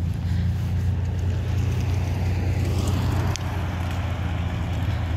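A car engine idling steadily with a low, even rumble, not revving; a brief sharp click about three seconds in.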